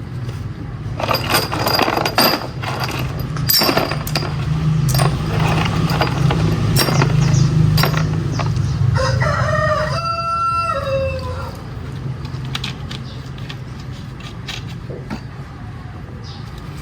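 A rooster crows once, about nine seconds in, a single call of some two and a half seconds. Underneath runs a steady low drone, with scattered sharp clicks and knocks, loudest in the first half.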